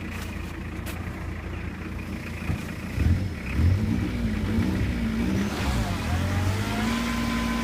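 Toyota Hilux engine running at a low idle, then revving up and down unevenly from about three seconds in, and holding a steady higher speed near the end.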